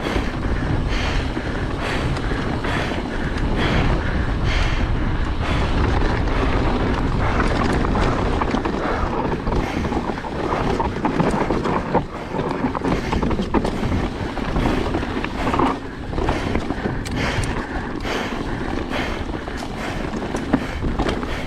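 Mountain bike descending a rough trail at speed: wind buffets the camera microphone over the tyre noise, with frequent rattles and knocks as the bike runs over bumps and rocks.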